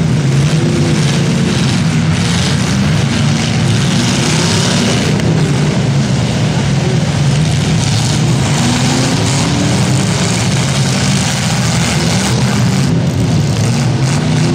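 Several demolition derby cars' engines running loudly, their pitch rising and falling as they rev, over a constant noisy din.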